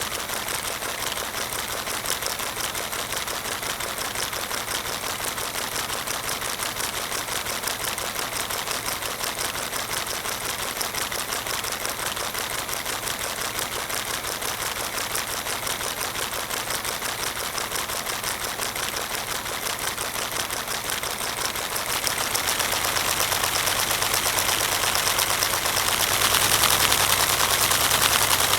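LEGO four-cylinder vacuum-driven engine running, its plastic pistons and valves making a fast, even clatter. It grows louder about three quarters of the way through and again near the end.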